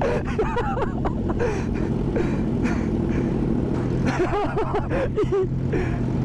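Sport motorcycle's engine running steadily at cruising speed, with road and wind noise.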